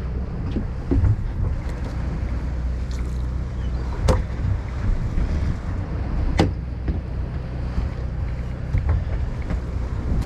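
Steady low hum of a party boat's engine, with wind on the microphone. Two sharp knocks stand out, about four seconds in and again a little past six seconds.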